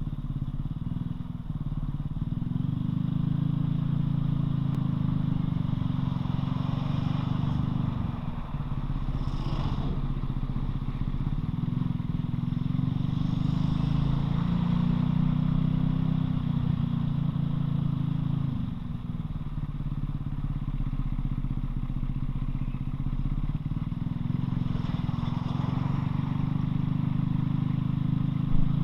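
Loncin LX250-12C 250 cc motorcycle engine under way, its note climbing as it pulls, dropping briefly twice as gears are changed, then climbing again.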